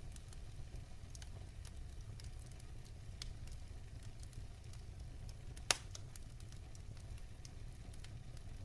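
Wood burning in a fireplace: a low, steady rumble of flame with scattered small crackles, and one sharp, louder pop a little before six seconds in.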